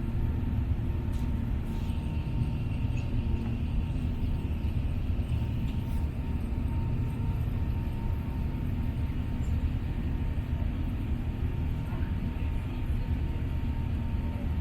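Steady low rumble inside the cabin of an Airbus A380 airliner.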